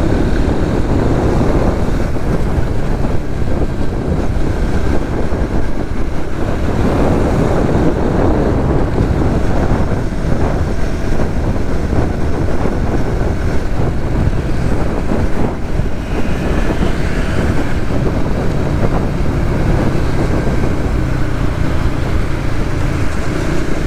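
Wind rushing over the microphone while a Suzuki GSX-S150 motorcycle's single-cylinder engine runs steadily at road speed.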